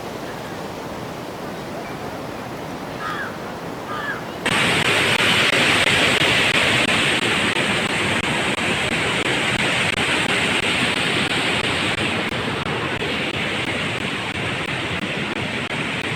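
Waterfall rushing steadily; about four seconds in, the sound cuts suddenly to a louder, brighter rush of falling water.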